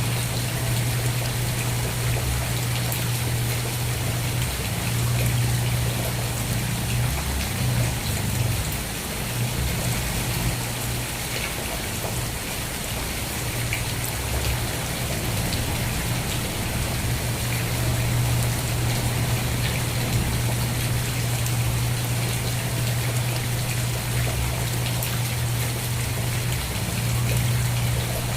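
Steady rain falling, an even hiss with scattered drop ticks, over a steady low hum.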